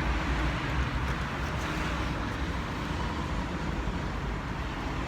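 Steady road traffic noise: a continuous low rumble with a hiss above it.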